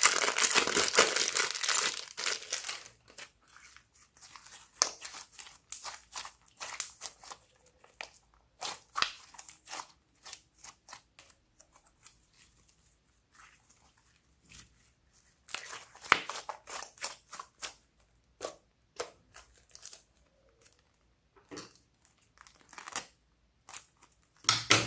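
Slime being worked by hand: a dense crinkling for about the first two seconds, then scattered sticky clicks and pops with quiet gaps between, and a louder cluster of them near the end.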